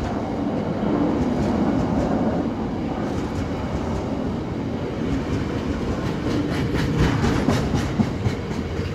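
Freight train hopper wagons rolling past close by: a steady rumble of wheels on rails, with a quick run of clattering wheel clacks from about six seconds in.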